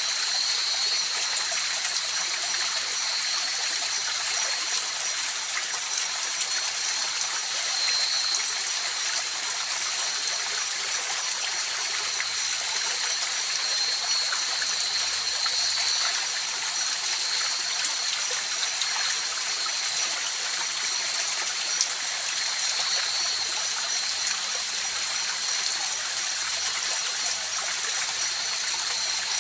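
A river flowing in a steady, unbroken rush, with a faint, steady high-pitched tone held over it.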